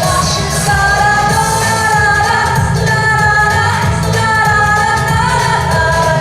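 A pop song playing: a held sung melody over a backing track with a steady pulsing bass, the words not made out.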